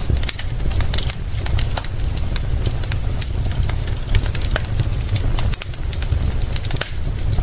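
Wood fire crackling with many irregular sharp pops, over a steady hiss of rain and a constant deep rumble.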